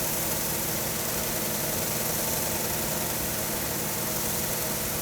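Blade cleaner running steadily: the hum of its 1.5 horsepower Leeson electric motor under the hiss of two 8-inch counteracting wire brushes scrubbing dirt and rust from one end of a lawn mower blade.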